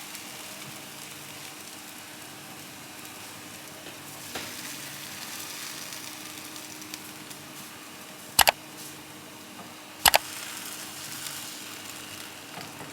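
Food frying in a pan with a steady sizzle. Two loud, sharp knocks come about a second and a half apart in the second half, like a utensil striking the pan.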